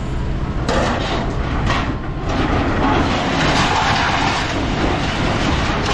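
A vehicle engine running with a steady low rumble. About a second in, a loud rough, rushing noise joins it and carries on, with a few short rattling hits.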